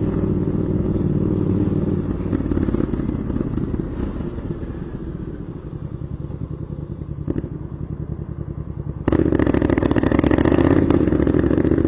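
Royal Enfield Classic 350's single-cylinder engine running steadily with an even pulsing beat. It grows quieter through the middle, then turns suddenly louder about nine seconds in.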